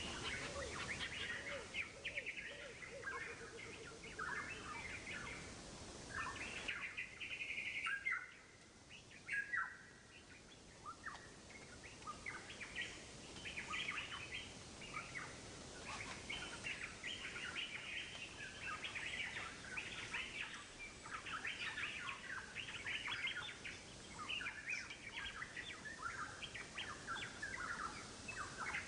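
Small birds chirping in a chorus: a dense run of short, irregular calls.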